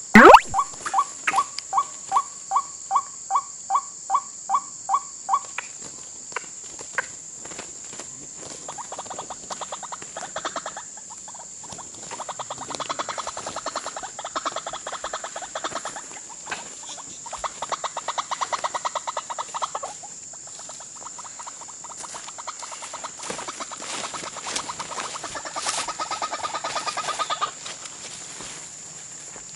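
Croaking calls of white-breasted waterhens (ruak-ruak): evenly repeated notes at about three a second for the first five seconds, then long fast-pulsed croaking runs on and off until near the end, over a steady high insect drone. One sharp knock just after the start is the loudest sound.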